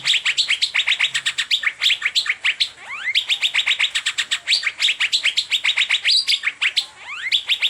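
Asian fairy-bluebird (cucak biru) singing in the fast 'teler' style: a dense, unbroken run of sharp chirps, several a second, mixed with rising whistled glides.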